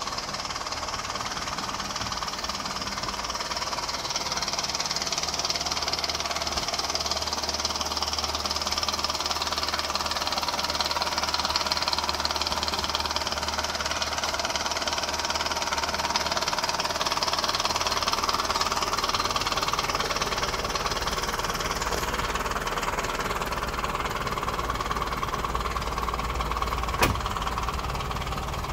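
Old Toyota Land Cruiser 40-series engine idling steadily, with a single sharp click near the end.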